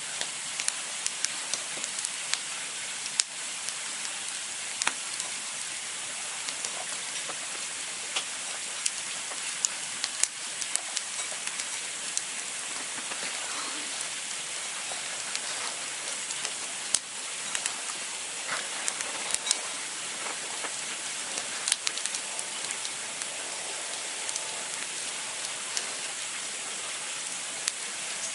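Campfire burning: a steady hiss of flames with frequent sharp crackles and pops at irregular intervals.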